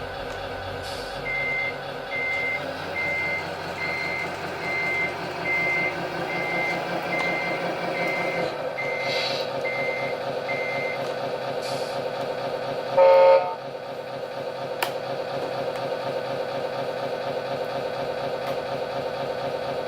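Servonaut sound module in a Tamiya 1/14 Scania RC truck playing a simulated diesel engine running. A reversing beeper sounds about a dozen times over the first half. A short, loud horn blast follows a couple of seconds after the beeping stops.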